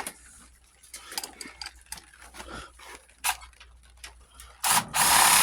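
Light clinks and taps of metal tools and parts, then near the end a loud, rough scraping rub of metal.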